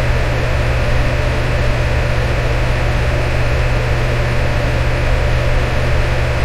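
Electric fan running steadily, an even whoosh of air over a strong low hum.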